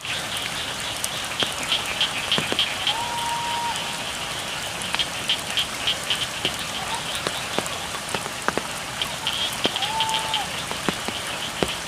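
Steady rain falling on a rice field with scattered drips, under a chorus of frogs calling in rapid, repeated pulses. Twice a single steady-pitched call lasting under a second stands out, about three seconds in and again near ten seconds.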